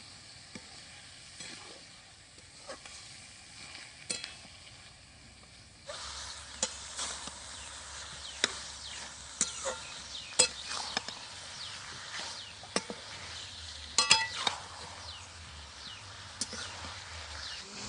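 Chicken giblets frying in hot oil with spices, sizzling steadily while a spatula stirs, scraping and knocking against the pan in sharp clicks. The sizzle gets louder about six seconds in, and the loudest knocks come a little past the middle.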